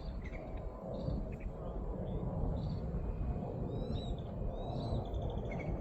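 Birds calling in short high chirps, with a couple of arching calls near the end, over a steady low rumble.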